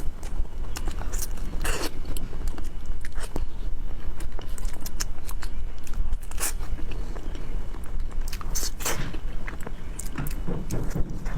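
Close-miked eating: a person biting and chewing, with frequent sharp wet clicks and crackles from the mouth and food.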